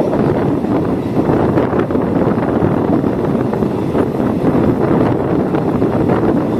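Steady running noise of a moving passenger train heard at an open carriage window, with wind rushing over the microphone.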